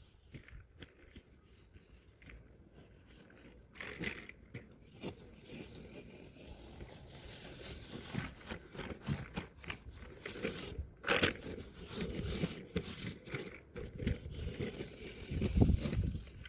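Snow shovel blade scraping along the driveway and pushing through deep snow, with irregular crunching strokes that get busier and louder from about four seconds in.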